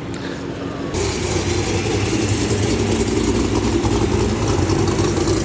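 A car's engine running at a loud, steady idle, coming in abruptly about a second in.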